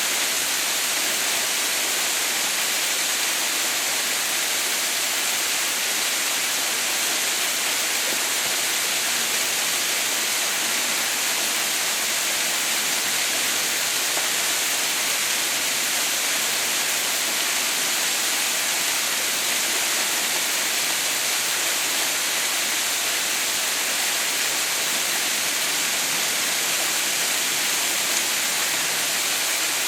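Haha no Shirataki (Mother's White Waterfall) falling: a steady, unbroken rush of water with a hissy top and no change throughout.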